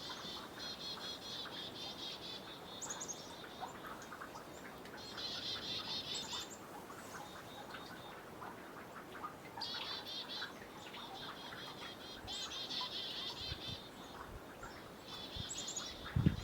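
A small songbird singing trills of rapid high notes, each about a second long and repeated about every two to three seconds, with a few short high downslurred calls between them. Faint drips of melting snow ticking into the water underneath.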